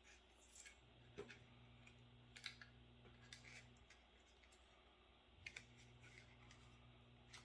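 Faint, scattered clicks and light plastic knocks from hands working cables and connectors out of a desktop PC case, with a faint low hum that comes and goes.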